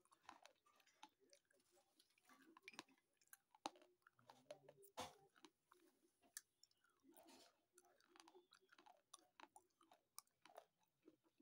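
Close-up chewing of slate pencil: irregular sharp crunches and crackles as the brittle pieces are bitten and ground between the teeth, several a second.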